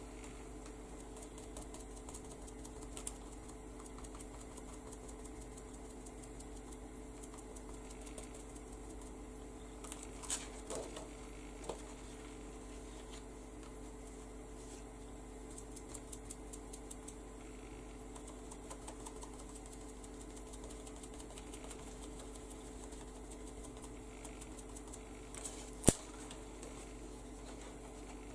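Faint, irregular tapping of a small makeup sponge dabbing paint onto paper, at times in short quick runs of dabs, over a steady electrical hum, with one sharp click near the end.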